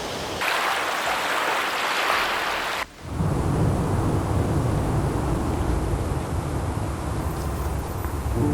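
Rushing water of river rapids, a steady hiss. About three seconds in the sound breaks off abruptly and gives way to a deeper, rumbling steady noise.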